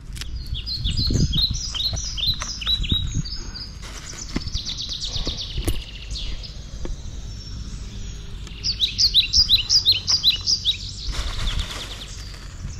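A bird chirping in rapid runs of short, high, downward-sliding notes, several a second, loudest about two-thirds of the way through, over a low rumble.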